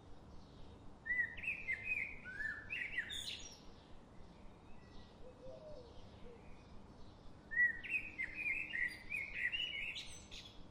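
A songbird singing two short phrases of quick warbled notes, one about a second in and another in the second half. Fainter calls of other birds and a low steady forest background run behind them.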